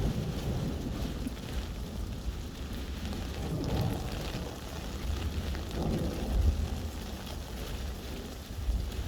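Steady rain falling, with low rumbling swells about four and six seconds in.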